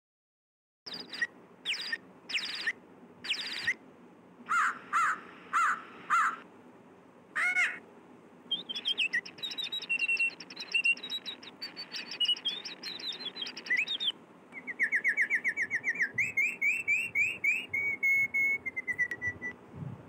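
Birds chirping and singing: about a second in, a string of separate high chirps, then a continuous twittering song, then a fast run of short repeated sliding notes near the end.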